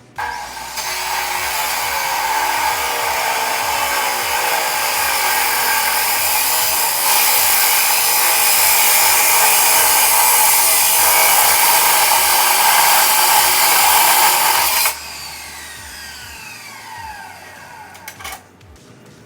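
A high-speed power tool running steadily for about fifteen seconds, then switched off and winding down with a falling whine.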